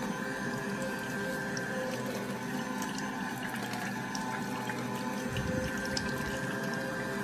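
AMZCHEF cold-press slow juicer running, its motor giving a steady hum of several held tones as it presses orange.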